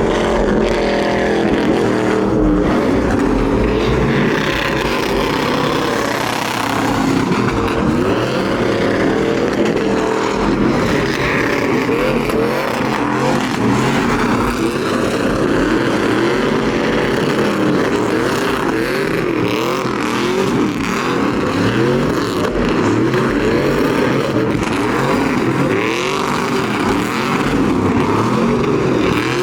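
Several truck engines revving hard, their pitch repeatedly rising and falling and overlapping one another, as trucks are driven around a pit.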